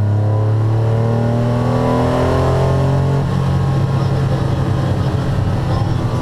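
Porsche 911 SC's air-cooled 3.0-litre flat-six accelerating hard, heard from inside the cabin: the engine note climbs steadily for about three seconds, then levels off and thins.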